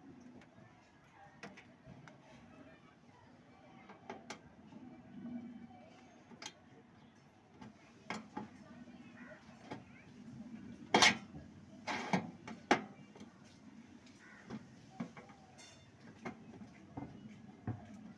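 Scattered clinks and knocks of tools and metal parts during hands-on repair work on a split AC outdoor unit, with the unit switched off. The loudest are a sharp knock about 11 seconds in and a few more around 12 seconds.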